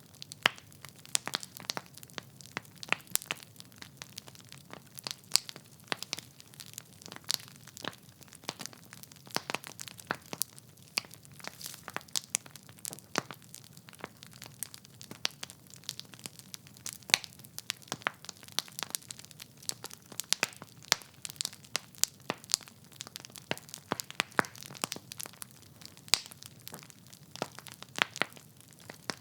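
Wood logs burning in a fireplace: constant irregular crackling and popping, several sharp pops a second, over a low steady rumble of the flames.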